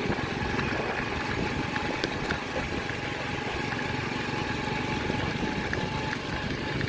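An engine running steadily at an even speed: a low rumble with a faint steady whine on top.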